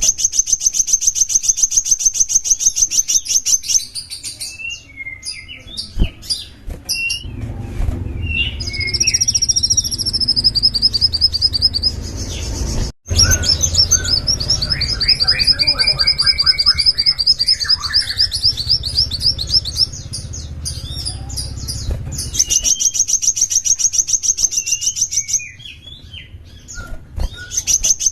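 A small songbird singing: long, fast, high-pitched trills repeated several times, broken up by short chirps and a lower stepped phrase. A low rumble sits under the song through the middle, and the sound drops out for an instant about halfway through.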